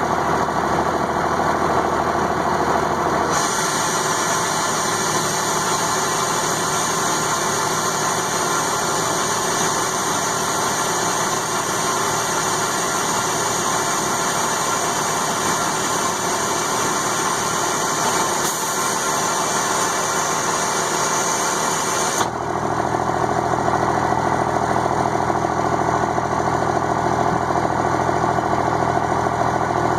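12-valve Cummins straight-six diesel idling steadily. About three seconds in the deep rumble drops away and a high hiss comes in; about twenty-two seconds in the full low rumble returns.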